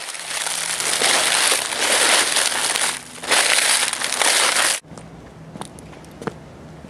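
Footsteps crunching through leaf litter on a forest floor, a dense crackling that cuts off abruptly a little under five seconds in, leaving a quiet background with a few faint clicks.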